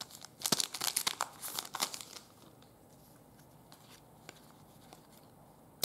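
Crinkly rustling and clicking of trading cards and their plastic wrapping being handled, for about two seconds, then only faint room tone.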